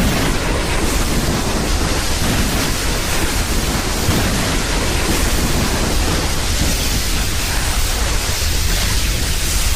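Loud, steady rushing noise spread evenly from low to high pitch, with no distinct strokes, tones or rhythm.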